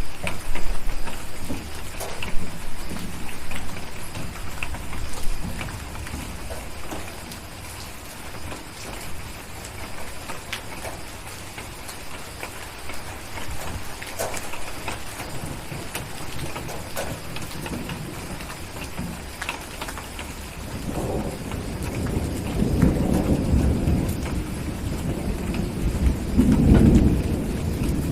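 Steady rain with scattered small ticks. A low thunder rumble at the start dies away within about six seconds, and a louder rumble of thunder builds about two-thirds of the way through and keeps on to the end.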